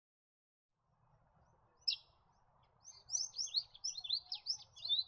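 Forest kingfisher calling: one short, sharp note about two seconds in, then a quick series of high, sharp, falling notes, about five a second.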